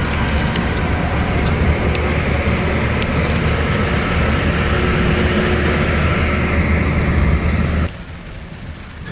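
Scania K410iB double-decker bus on the move: a steady low engine and road rumble that drops away suddenly near the end.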